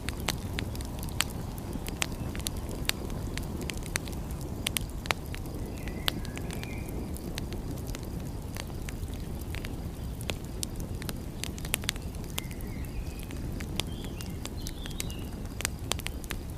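Wood fire crackling, with irregular sharp pops and snaps over a steady low rumble, and a few faint short high chirps.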